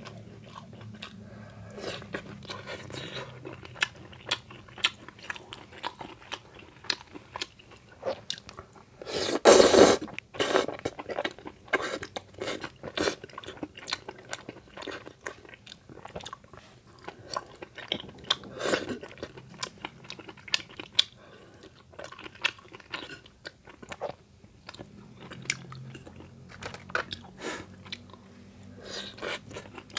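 Close-miked eating sounds of spicy tteokbokki rice cakes and fried snacks: wet chewing and crunching with many short sharp clicks. There is one loud burst a little under ten seconds in.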